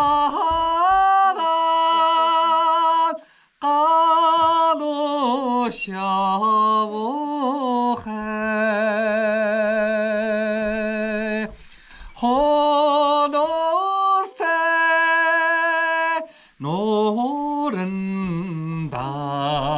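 A single voice singing a traditional Mongolian song: long held notes with wide vibrato, in phrases broken by short breaths. The melody drops much lower about three-quarters of the way through.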